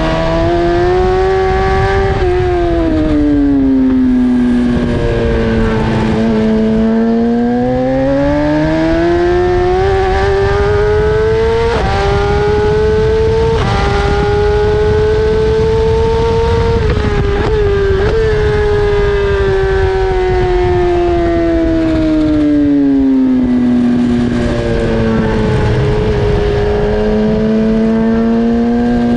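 BMW S1000RR inline-four engine at racing speed, rising and falling in pitch as it accelerates and slows through corners. Quick upshifts about twelve and fourteen seconds in, then throttle blips on the downshifts a few seconds later.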